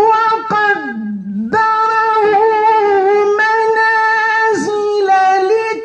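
A man chanting Quran recitation in melodic tajweed style, holding long drawn-out notes with ornamented turns. The voice dips and glides downward about a second in, then holds steady again.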